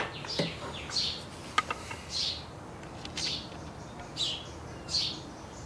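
A bird chirping over and over, a short high call about once a second, with one light click partway through.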